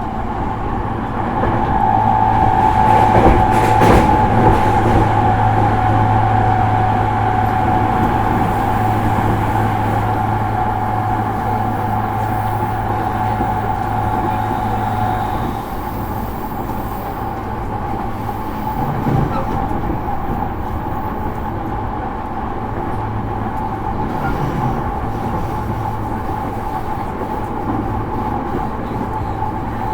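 Running sound inside a JR East E231-series motor car at speed: steady rumble of wheels on rail under a held whine, with one sharp clack a few seconds in.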